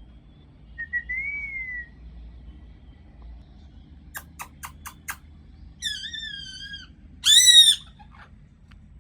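Parrot calling: a short whistled note that rises and falls, then a quick run of five sharp clicks, then two harsh squawks, the second and loudest a brief arched screech.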